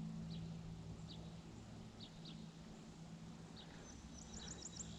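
Faint outdoor birdsong: scattered short, falling chirps, then a quick run of about six notes near the end, over a steady low hum.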